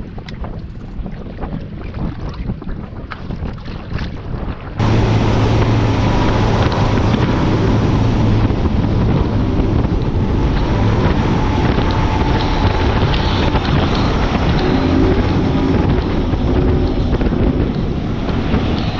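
Bass boat under way on open water, with wind buffeting the microphone. For the first five seconds it is quieter, with scattered knocks against the hull. Then it jumps abruptly to much louder running: a steady low engine hum under heavy wind and water rush.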